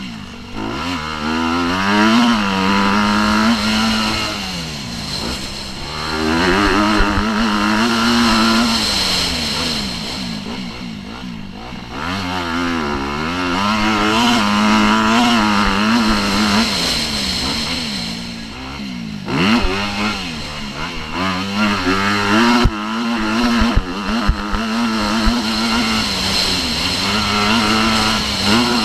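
Motocross bike engine revving hard and easing off again and again, its pitch rising and falling as it works through the gears, with a few sharp knocks about two-thirds of the way in.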